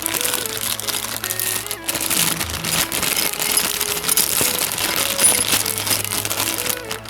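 Background music with dense crinkling and rustling of plastic packaging being handled, with many small crackles and clicks.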